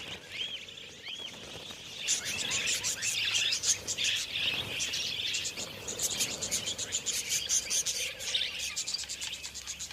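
A flock of budgerigars chattering, with many overlapping chirps and warbles. A few single calls come first, then the chatter grows busier and louder about two seconds in.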